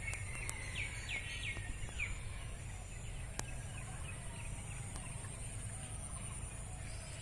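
Wild birds calling in open country: a rapid series of short chirping notes in the first two seconds, then fainter repeated chirps, over a steady high-pitched background drone.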